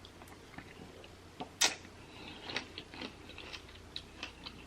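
A person chewing a mouthful of berries and pomegranate seeds close to the microphone: soft wet smacks and small clicks, with one sharper click about one and a half seconds in.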